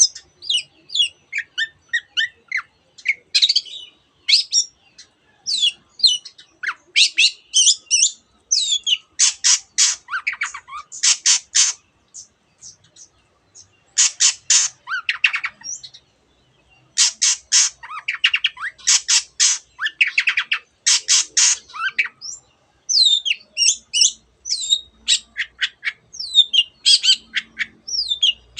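Long-tailed shrike (cendet) singing loudly, a varied run of high chirps and whistled phrases mixed with mimicked calls of other birds. In the middle come several stretches of rapid, harsh rattling notes fired in quick succession, with a few short pauses between phrases.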